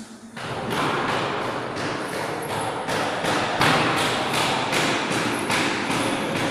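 A rapid series of knocks, about four a second, over a dense clattering noise that starts about half a second in.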